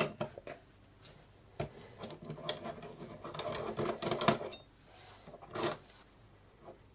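Small metal parts of a lathe's tool post being handled and tightened: a run of light metallic clicks and clinks, then one sharper click near the end.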